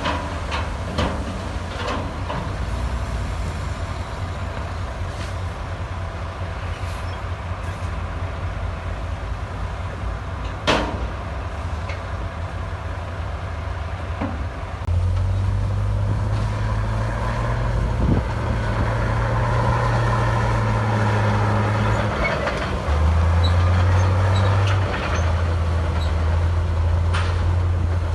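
Heavy diesel engine of earth-moving equipment running steadily, with scattered metallic clanks and one sharp knock. About fifteen seconds in the engine note steps up louder and holds, as if under heavier load.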